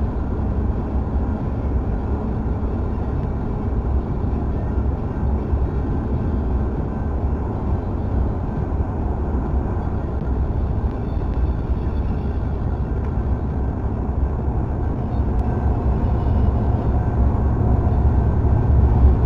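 Steady low vehicle rumble, growing a little louder over the last few seconds.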